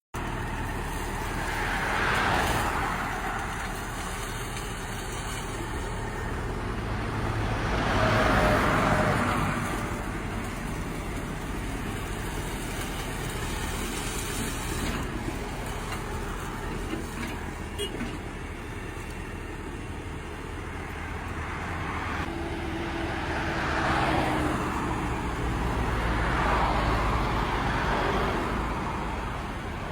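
Heavy engine noise running steadily, swelling louder several times.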